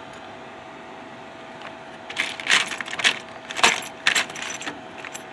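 Metallic jangling and clinking: a cluster of sharp rattles starting about two seconds in and lasting a couple of seconds, over a steady hum with a faint constant whine.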